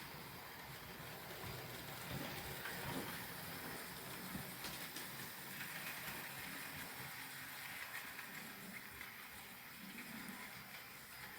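Trix HO-scale model locomotive running on model track: a low, steady rattling noise with a few small irregular knocks.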